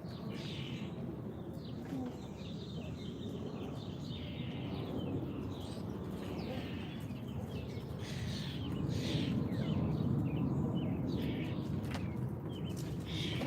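Several small songbirds chirping and calling in quick, overlapping short notes, over a steady low rumble that swells briefly a little past the middle.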